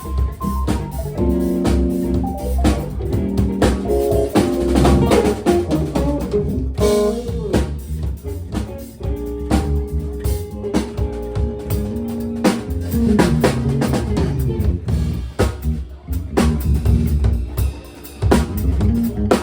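Live band playing an instrumental soul-funk tune: a drum kit drives it with bass drum, snare and rimshots, under guitar and bass lines.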